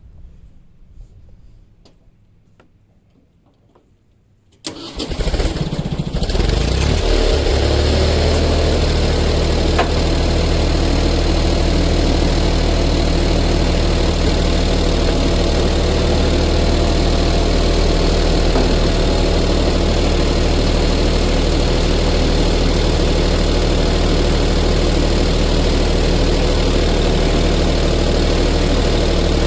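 A tractor engine starts about four and a half seconds in, catches at once and settles into a steady idle.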